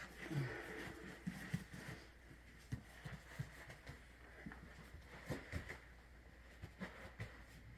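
Irregular light knocks and clicks, as of tools or objects being handled, over a faint steady hiss.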